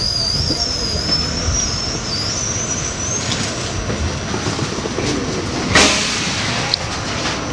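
R68 subway train running on the rails with a steady rumble, a high wavering wheel squeal for about the first three seconds, and a sharp clack about six seconds in.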